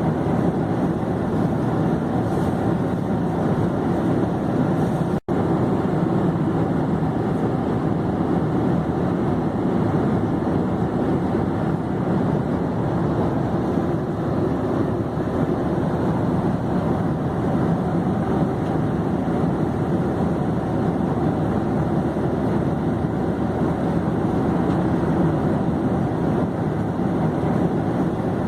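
Airplane in flight: a steady, even rush of engine and air noise that drops out for an instant about five seconds in.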